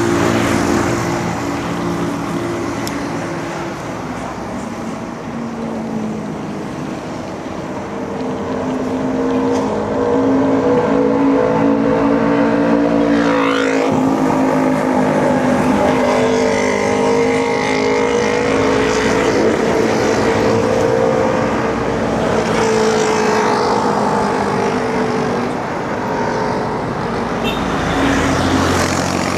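Road traffic around a cyclist: several motor vehicle engines run, rising and falling in pitch as they speed up and slow down, with one vehicle passing close about halfway through.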